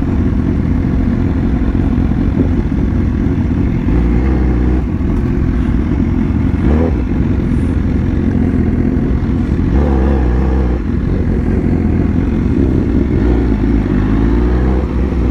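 BMW S1000R's inline-four engine running steadily at low speed, with brief rises in revs about seven and ten seconds in.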